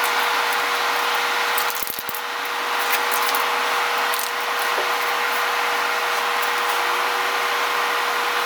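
A small power tool running steadily, with a constant motor hum under an even hissing, abrasive noise, briefly dipping about two seconds in.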